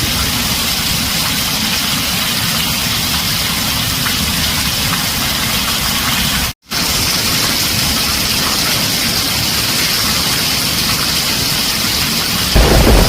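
Heavy rain drumming steadily on a tin roof, a dense even hiss. It cuts out completely for a split second about halfway, and a deep rumble of thunder comes in near the end.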